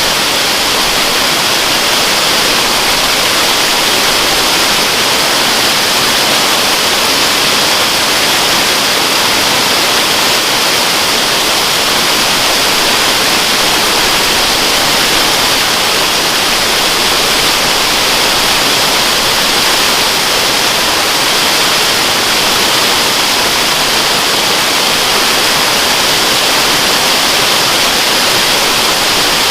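Waterfall rushing, a steady hiss of falling water with no breaks or changes.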